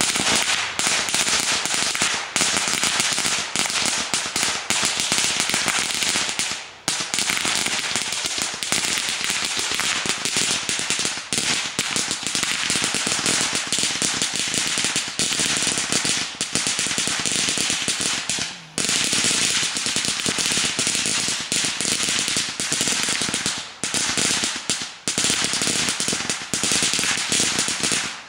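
A long roll of firecrackers going off in a continuous, rapid crackle of loud pops, with a few brief lulls.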